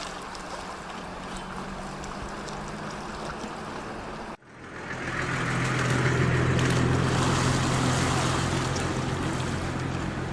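A motor hums steadily under a rushing noise. About four seconds in it cuts off abruptly and a louder hum with hiss takes over, swelling up and then holding steady.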